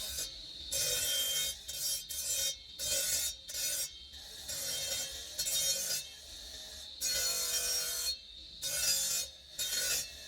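Hand filing or abrading of a marble carving: scraping strokes of irregular length, roughly one a second, with brief pauses between them.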